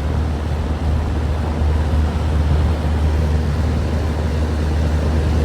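Lennox Value series 4-ton central air conditioner condensing unit running: its Copeland scroll compressor and condenser fan make a steady low hum under an even rush of fan air. The condenser fan is super off balanced.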